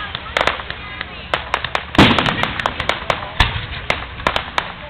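Aerial fireworks crackling and popping in rapid, irregular snaps, with a loud bang about two seconds in and another a second and a half later.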